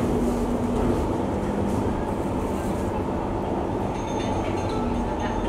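Singapore MRT train in motion, heard inside the carriage: a steady rumble of wheels and running gear with a faint low hum. A thin high whine joins in about four seconds in.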